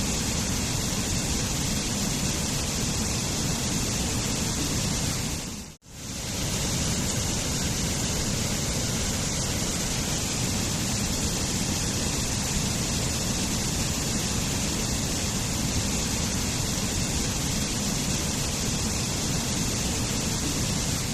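Waterfall rushing steadily, a dense even wash of falling water. About six seconds in, the sound fades out to near silence for a moment and fades straight back in.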